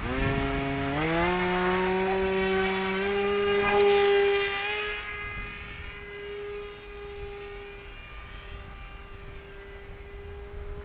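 FPV44 KFm-4 flying wing's motor and propeller buzzing, stepping up in pitch about a second in as the revs rise, then holding a steady note and growing fainter after about five seconds.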